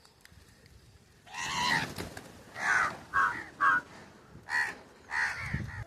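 Birds giving a series of about six harsh calls, the first one longer, the rest short and spaced about half a second to a second apart.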